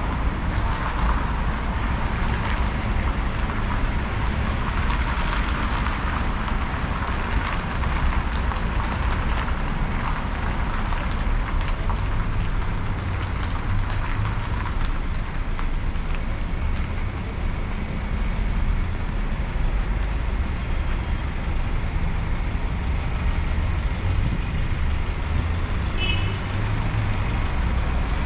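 Steady city street traffic: the continuous rumble of cars, buses and trucks passing, with a few short high squeaks over it.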